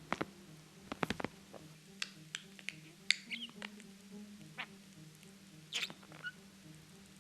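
Budgerigar giving short, squeaky chirps and clicks, scattered and brief, the clearest about three seconds in and again near six seconds.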